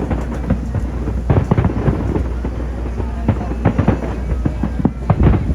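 Fireworks bursting in quick succession, many sharp bangs over a continuous low rumble, with heavier clusters of bangs about a second and a half in and again near the end.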